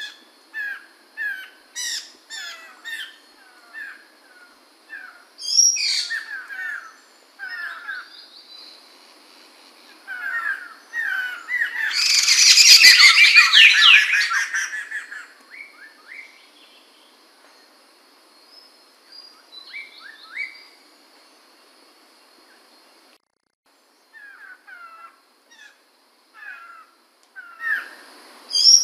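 Poksay mantel laughingthrush calling: series of short repeated chirps at about two a second, swelling into a loud burst of rapid calls about twelve seconds in, then sparser chirps, and another loud burst near the end. A thin steady high whine runs under the calls through the middle part.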